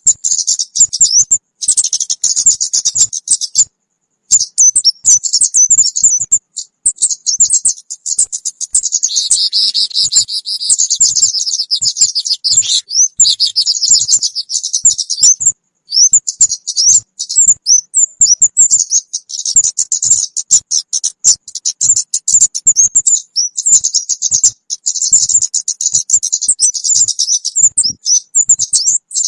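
Lure recording of the small kemade bird: rapid, high-pitched chirps and twitters in dense runs, broken by short pauses a few times.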